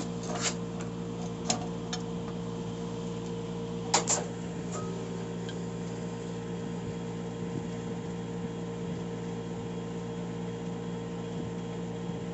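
Steady hum of a fan or motor running, with a few short, sharp knocks of metal transmission parts being handled, the loudest about four seconds in.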